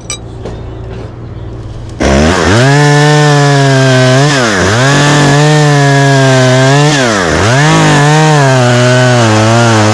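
Chainsaw idling, then throttled up to full speed about two seconds in and cutting a notch into an oak limb; the revs sag twice under the cut and climb back.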